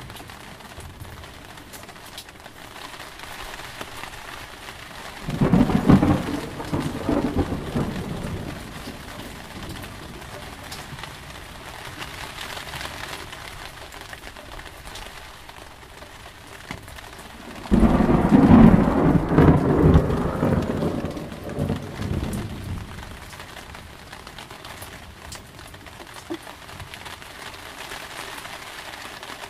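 Thunderstorm: steady heavy rain with two peals of thunder. The first starts about five seconds in; a louder one breaks sharply about eighteen seconds in. Each rumbles away over a few seconds.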